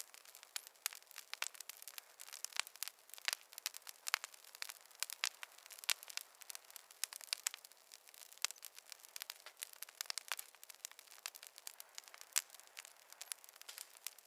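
Wood fire crackling in a fireplace: many sharp, irregular pops and snaps over a faint hiss.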